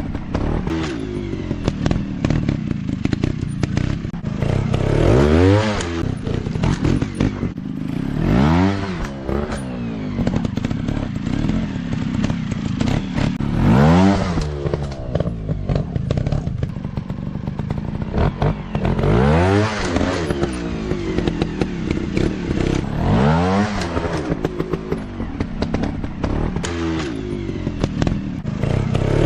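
Small dirt bike engines running hard, the pitch sweeping up and back down five or six times as the throttle is worked or bikes go past, over steady engine noise with scattered clattering.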